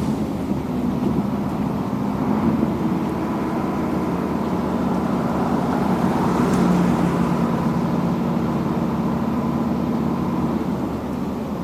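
Road-construction machinery engine running steadily at a constant pitch, with a brief rise of hiss about six and a half seconds in.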